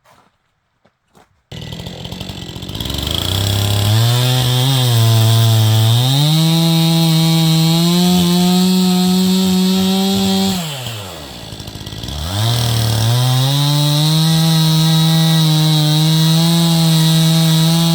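Gas chainsaw comes in suddenly and revs up to full throttle while cutting wood. Partway through the engine falls back toward idle, then revs up again and holds steady for another cut.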